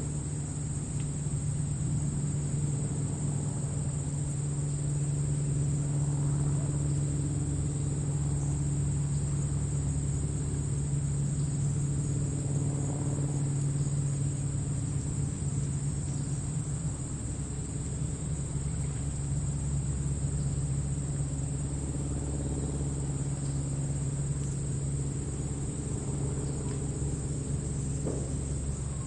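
Crickets chirring steadily in grass, a continuous high-pitched trill, over a low steady rumble.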